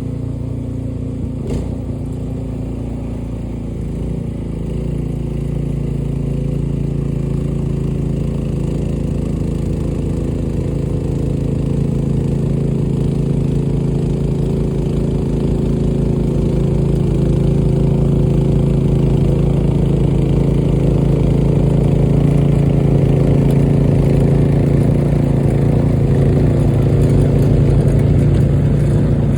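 Gas snowblower engine running steadily under load, a little louder from about four seconds in.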